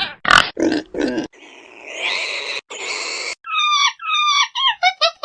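Pig grunts: three short oinks in the first second or so. These are followed by about two seconds of hissing noise, then a run of short calls that fall in pitch and come faster near the end.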